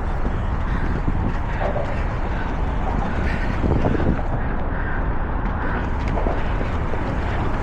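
Steady low rumble with wind buffeting on a body-worn camera's microphone, even in level throughout.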